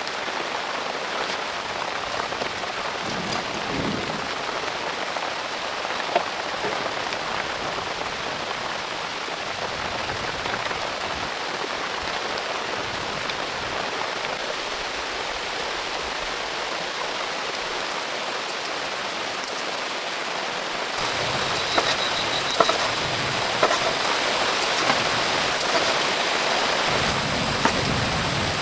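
Heavy rain falling steadily. It grows louder about three-quarters of the way through, with a few sharp cracks.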